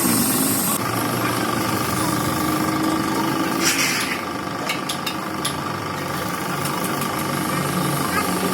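An engine running steadily, with a steady whine from about a second in, a short hiss just before the middle and a few sharp clicks.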